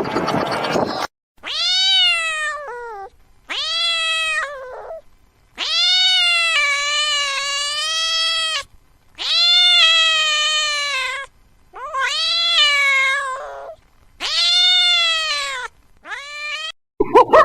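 A domestic cat meowing over and over in long, drawn-out yowls, about seven calls with short gaps between them, each rising at the start and then held. A second of rushing noise comes before the first call.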